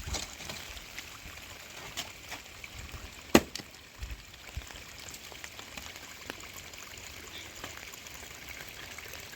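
Water trickling and dripping, with scattered light ticks and one sharp knock a little over three seconds in.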